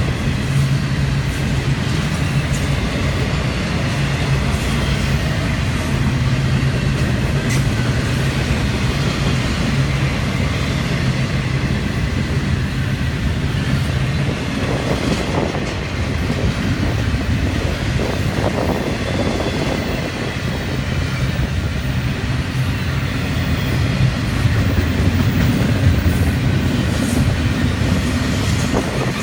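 Florida East Coast Railway freight train rolling past, its steel wheels running on the rails in a steady rumble.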